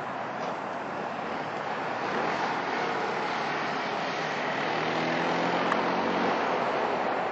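Electric passenger train approaching from a distance: a steady rushing noise of the train on the rails that slowly grows louder, with a faint low hum of several tones joining about five seconds in.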